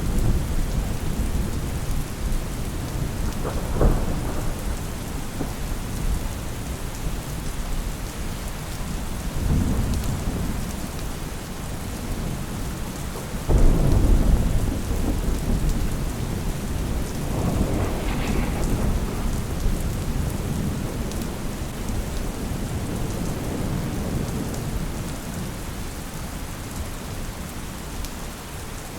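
Steady rain falling, with thunder rolling several times. The loudest rumble breaks in suddenly about halfway through and fades slowly.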